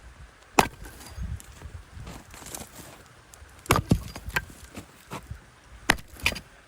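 Firewood being split with an axe: sharp woody knocks and cracks, one about half a second in, a quick double blow around the middle, and another pair near the end.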